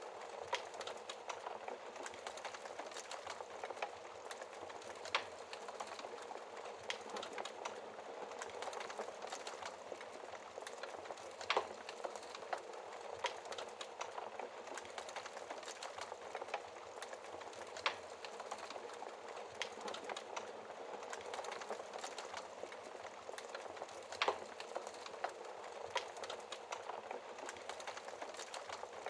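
Wood fire crackling in a fireplace: a steady hiss of burning with many small crackles and a few sharper pops every few seconds.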